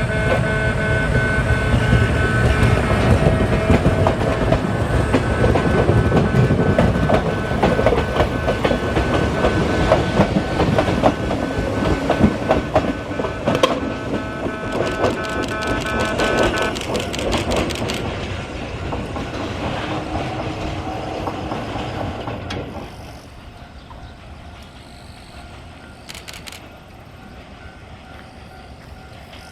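Yoro Railway 600-series electric train running, with wheels clicking over the rail joints. It is loud at first, fades after about 17 seconds and drops off sharply about 23 seconds in as the train moves away.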